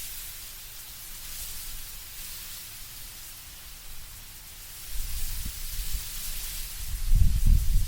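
Wind blowing through autumn trees, the leaves rustling in a steady, soft hiss. About five seconds in a low, gusty rumble of wind rises, strongest near the end.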